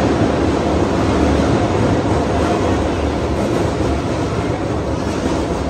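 Commuter train running, a steady loud noise without distinct clicks or wheel squeal.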